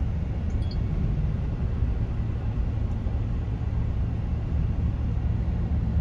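Car on the move, a steady low rumble of road and engine noise heard from inside the cabin.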